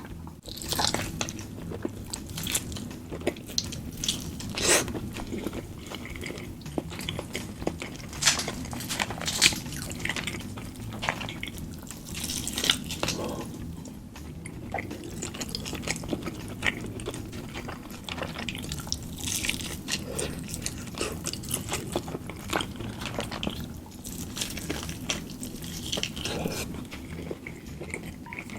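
Close-miked eating: a person chewing and biting food, with irregular wet crunches and clicks throughout.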